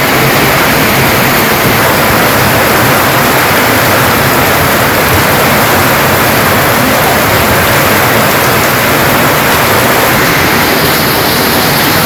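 Heavy downpour during a nor'wester storm: a loud, steady rush of rain.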